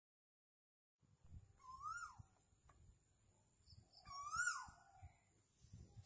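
A bird calls twice, about two seconds apart. Each call is one swooping note that rises and then falls. A steady high-pitched whine runs underneath.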